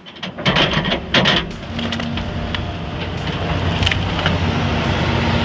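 Wood cracking and splintering in a few sharp snaps under a heavy hydraulic machine, then the machine's diesel engine drones on steadily.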